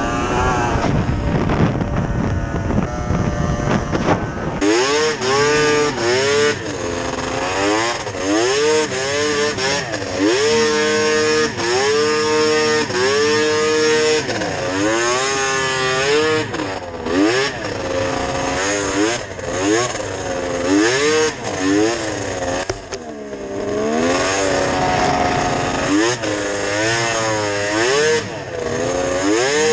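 Yamaha VMAX 700 snowmobile's three-cylinder two-stroke engine, fitted with Hauck triple pipes, running hard while climbing. A low rumble for the first four seconds or so, then the engine revs up and down over and over.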